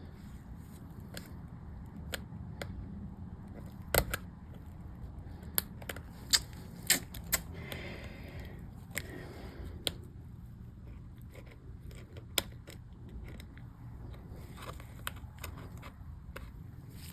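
Irregular small plastic clicks and snaps from MacBook keycaps and their scissor mechanisms being handled and pressed into the keyboard, with a brief scraping sound about eight seconds in, over a steady low hum.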